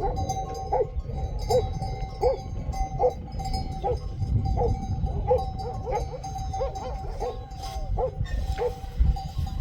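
An animal calling over and over, short arched calls about one every three quarters of a second, over a steady low rumble.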